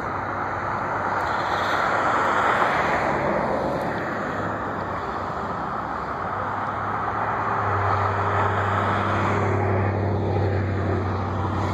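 Steady vehicle noise that swells twice, with a low engine hum growing stronger about eight seconds in.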